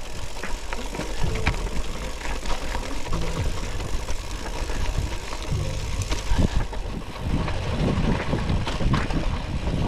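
Gravel bike descending a dirt and gravel truck trail: a heavy, gusty rumble of wind on an action camera's microphone, with many short clicks and rattles from the tyres and bike over the loose surface.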